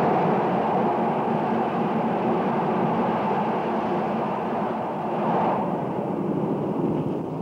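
Two passenger trains passing each other at speed on neighbouring tracks: a steady rush of wheels on rail and wind, swelling briefly about five seconds in.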